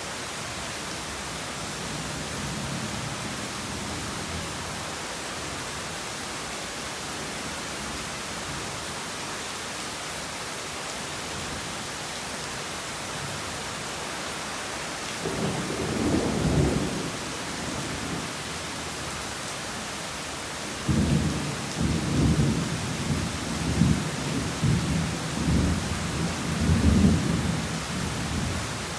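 Heavy rain falling steadily, with thunder: a short low rumble about halfway through, then a longer rolling peal with several louder surges over the last several seconds.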